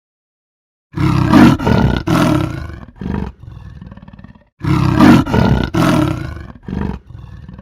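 A big cat roaring: a loud, deep roar with a few grunts starts about a second in and tails off, then the same roar sounds again almost identically about halfway through.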